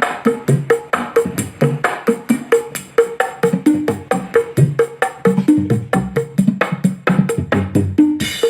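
Music with a fast, even drum beat played through a miniature sound system's speakers as a sound test, with a brief bright crash near the end.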